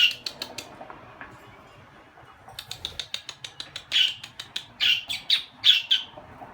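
Pet budgerigars chirping: quick runs of short, sharp calls at the start and again from about two and a half seconds in, the loudest chirps coming about four to six seconds in.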